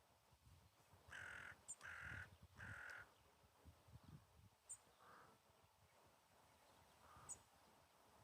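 A crow cawing three times in quick succession, harsh and evenly spaced, then two fainter caws later on. A few short, high chirps are scattered through.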